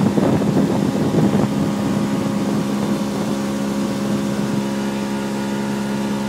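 Motorboat engine running steadily at low, no-wake speed, with rushing water and wind noise in the first few seconds that then settles into an even engine hum.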